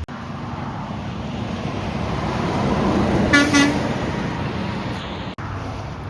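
A truck passing on the road, its noise building up and then easing off, and giving two short blasts of its horn as it goes by.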